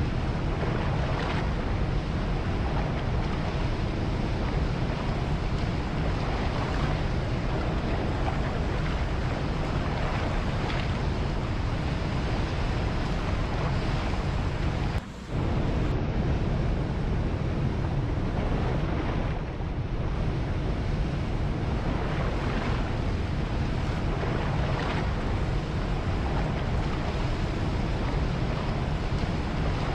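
Steady rushing wash of ocean surf mixed with wind, with a brief dropout in the sound about halfway through.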